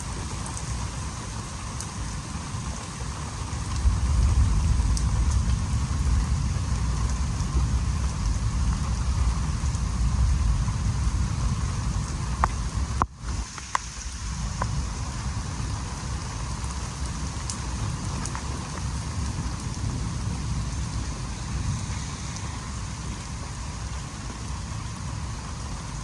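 Steady rain falling, with scattered sharp drop taps and a low rumble that grows louder for several seconds before easing off.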